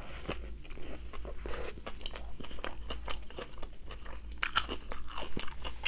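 A person biting and chewing crunchy food: a run of small crisp crunches, with a few louder ones about four and a half seconds in.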